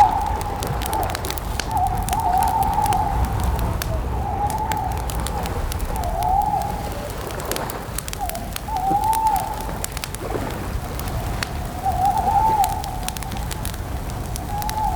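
Campfire crackling with scattered sharp pops over a low rumble, while an owl hoots again and again in short wavering calls.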